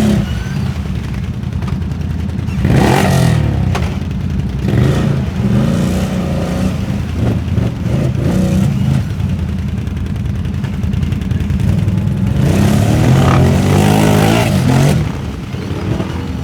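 4x4 ATV engines revving hard, the pitch climbing and dropping over and over. Louder surges come about three seconds in and again near the end.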